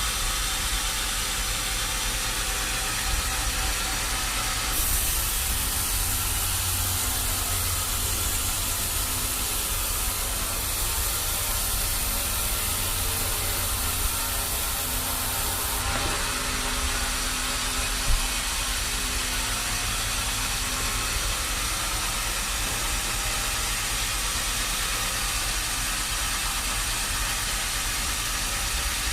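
Sawmill machinery running steadily. A louder, higher hiss comes in about five seconds in and stops about sixteen seconds in, and there is a single sharp knock a couple of seconds later.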